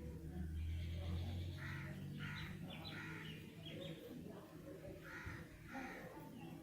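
A bird calling outdoors: a quick run of short calls in the middle and two more near the end, over a steady low hum that fades out early on.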